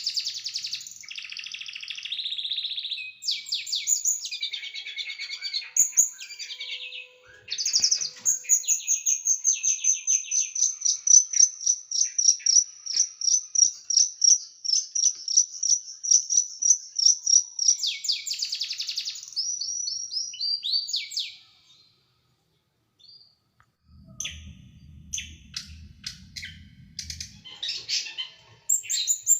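A small songbird sings harsh, rapid trills and fast runs of repeated high notes: the sharp, tight 'tembakan' bursts used to train caged songbirds. The singing stops briefly past the middle. A low hum follows for a few seconds before the bird starts again near the end.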